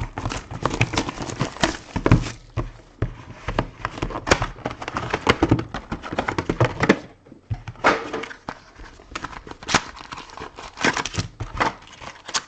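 Plastic wrapping crinkling and tearing, with the light knocks of cardboard being handled, as a sealed box of trading cards is opened. The handling is busy and irregular, with a brief pause a little past the middle.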